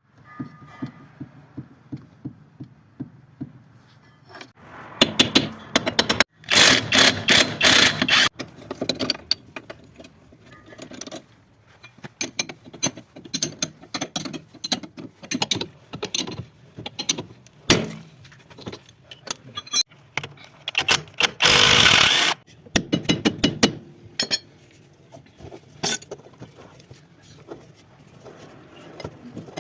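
Metal hand tools clicking, clanking and ratcheting during a tie rod end replacement on a car's steering. The clicks come in irregular runs, with a few quick loud spells in between.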